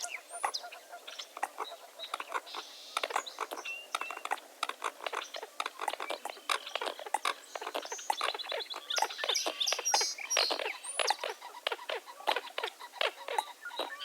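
Many birds calling together at sunrise: a dense stream of short clicks and chips, with scattered pitched calls and a few quick rising chirps.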